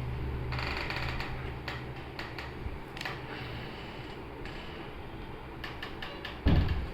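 Scattered light clicks and taps of a smartphone and its parts being handled, with a low thump near the end.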